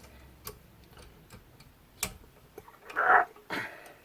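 Handling noise as the 300-watt spindle is taken off a CNC router: scattered light clicks at uneven intervals, then a short loud scraping rattle about three seconds in and a weaker one just after.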